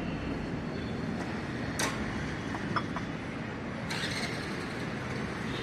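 Steady background noise of traffic and a service bay, with one sharp click a little under two seconds in, a couple of faint ticks, and a rise in hiss about four seconds in.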